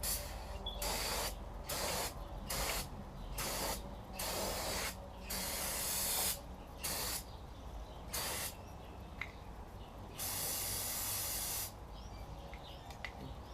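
Aerosol brake cleaner spraying in about nine short hissing bursts, the last and longest lasting about a second and a half.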